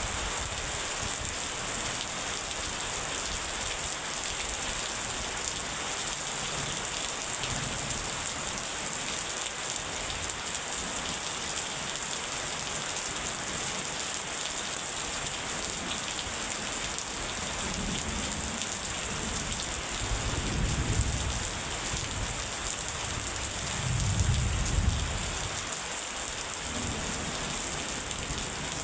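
Steady rain pouring down, with low rumbles of thunder rolling under it. The two loudest come about two-thirds of the way in and again a few seconds later.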